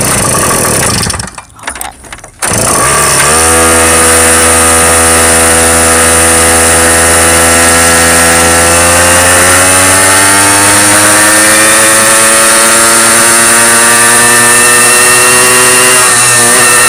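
Motorcycle engine running under way, its pitch climbing slowly as the bike gathers speed. It is preceded by about two seconds of rough, uneven bursts of noise before the steady engine note sets in.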